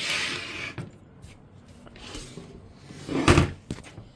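A box fan being handled and turned over while switched off: a brief scuffing rub near the start, light scraping, then a single thump a little past three seconds in.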